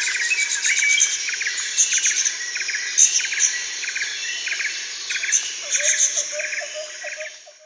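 Insect chorus: a steady high hiss with a chirp repeating a little under twice a second, and birds calling over it. It cuts off suddenly at the end.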